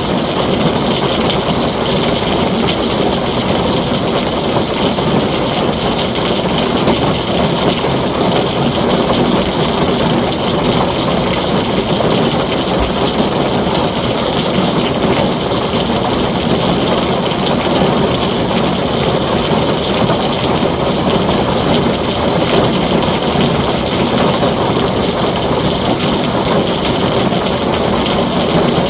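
Heavy rain falling steadily on a tin roof, a dense, even hiss with no thunderclap.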